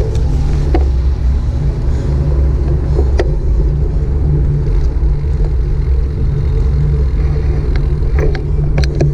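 Steady low rumble of wind buffeting the microphone and road noise while riding a bicycle, with a few sharp clicks and rattles from the bike, mostly near the end.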